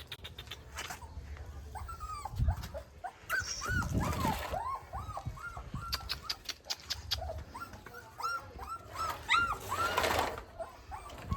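Puppy whimpering: a string of short, high whines, each rising and falling, coming in clusters, with some rustling noise around the loudest runs.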